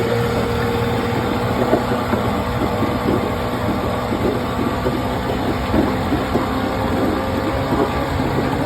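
1976 Johnson 9.9 hp two-cylinder two-stroke outboard motor running steadily just after a cold start, still warming up at the start throttle setting, with irregular pops over the engine note.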